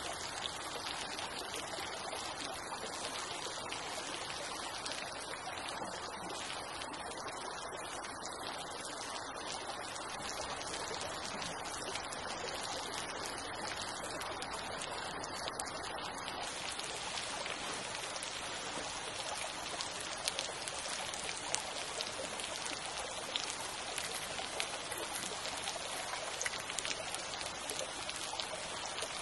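A small creek flowing with a steady rushing hiss. About halfway through the sound grows brighter, and a few faint, sharp clicks are scattered through the later part.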